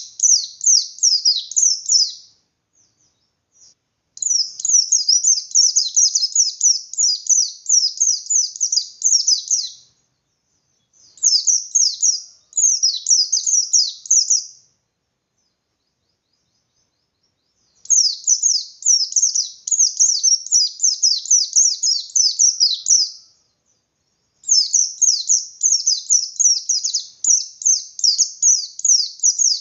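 A pleci (bustomi white-eye) singing in loud, fast bouts of high, downward-slurred notes, about five notes a second, each bout lasting two to six seconds with short pauses between. This is the hard-driven 'ngalas' song that is used to provoke other white-eyes into singing.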